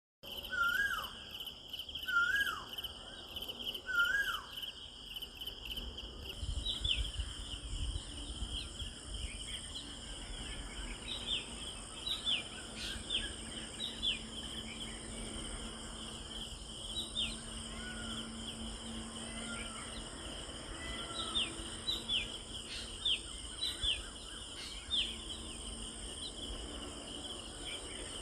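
Steady shrill chorus of crickets or similar insects, with birds calling over it: three repeated downward-sliding calls in the first few seconds, then many short quick chirps.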